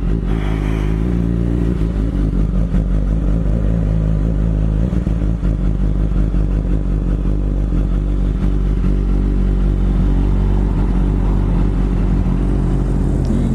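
BMW S1000RR motorcycle engine running at fairly steady revs while riding.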